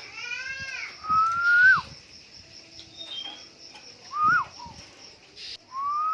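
Black-naped oriole (kepodang) calling: a harsh, arched call with overtones at the start, then three clear fluty whistles, each rising and then dropping sharply, spaced a few seconds apart.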